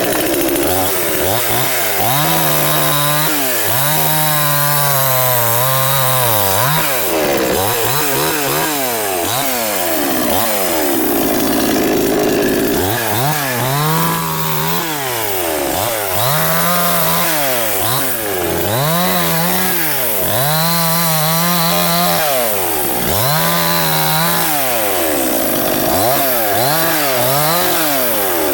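Gasoline chainsaw engine being revved up and let back down again and again, about every two seconds, sometimes held at high speed for a moment before dropping.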